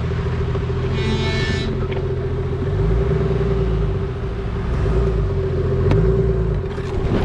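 4WD vehicle's engine running at low speed on a snowy forest track, the revs rising and falling a couple of times, with a steady whine running under it.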